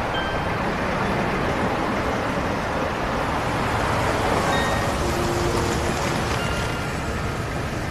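Steady road traffic noise, with vehicles running, as a bus approaches.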